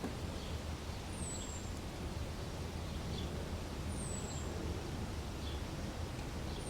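A bird repeats a high, thin whistle that slides downward, about once every three seconds, over a steady low background rumble of outdoor ambience.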